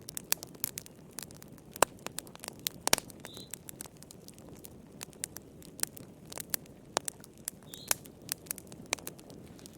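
Fire in a fireplace crackling: irregular sharp crackles and pops over a low steady rush of flame. A faint short high chirp comes twice.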